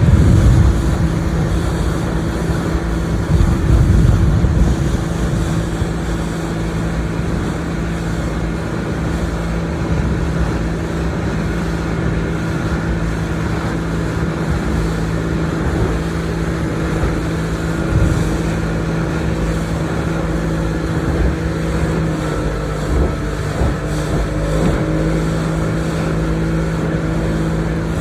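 A motorboat engine running steadily as the boat moves along, a constant hum under wind and water noise. There are stronger low rumbling gusts in the first few seconds.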